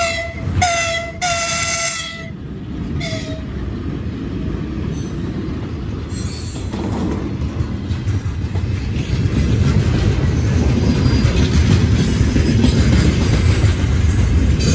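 VL10U electric locomotive's horn sounding a single steady tone in three blasts, the third the longest, and a brief fourth a second later as the freight train approaches. Then the freight wagons roll past close by, a steady rumble and clatter of wheels on rails that grows louder about ten seconds in.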